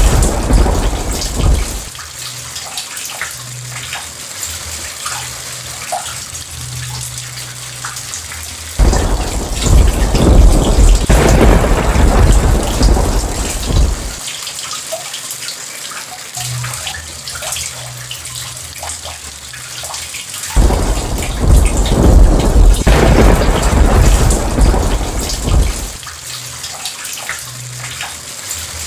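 Steady heavy rain with thunder rolling in three times: one rumble fades out about two seconds in, and two more break in suddenly, about nine and twenty-one seconds in, each dying away over several seconds.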